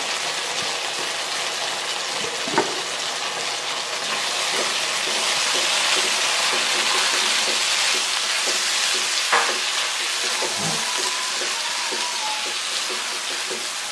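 Sliced sausages sizzling in sauce in a nonstick wok, stirred with a spatula. It is a steady frying hiss that grows a little louder after about five seconds, with two sharp knocks of the spatula against the pan.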